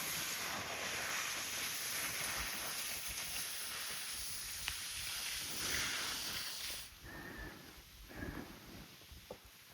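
A steady, scraping hiss of someone glissading down a snow slope, sliding on their backside. It cuts off sharply about seven seconds in, leaving a few fainter, short sounds.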